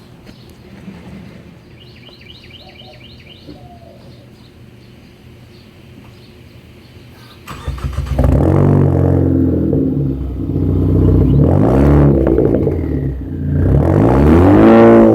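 A car engine with a Roush cat-back exhaust and a catless downpipe starts up warm about halfway through, suddenly and loudly. It is then revved about three times, the pitch rising and falling each time. Before the start, a bird chirps a quick run of notes.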